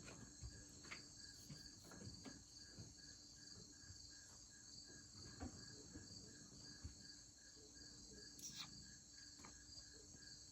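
Crickets chirping faintly in an evenly pulsed chorus, with a steady high insect hum above.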